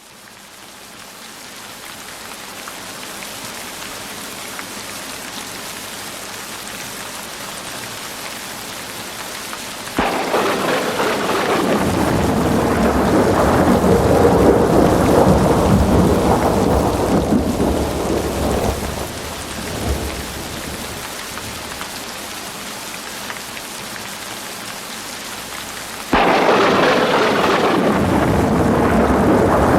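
Heavy rain with rolling thunder: the rain hiss fades in, then about a third of the way through a deep thunder rumble cuts in, swells and slowly dies away. Near the end the sound jumps abruptly louder again as another stretch of storm is spliced in.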